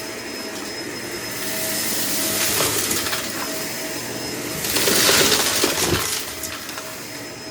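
Vacuum cleaner running with a steady motor whine, pulling up loose debris that clicks and rattles through it, with two louder rushes of suction partway through.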